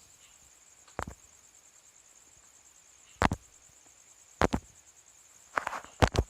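Insects chirring steadily in a high continuous trill, with a few separate footsteps that come closer together near the end.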